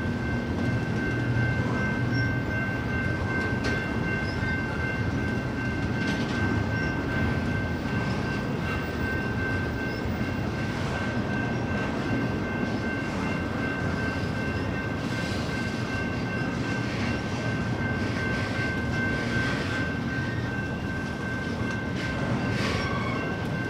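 BNSF double-stack intermodal train rolling past, its well cars giving a steady rumble on the rails. A thin steady high whine runs through it, and a few brief clanks sound along the way.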